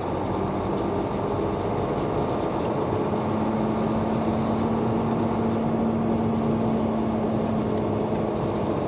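Semi truck's diesel engine running steadily as heard from inside the cab while the truck rolls slowly, with a steady one-pitch hum joining in about three seconds in.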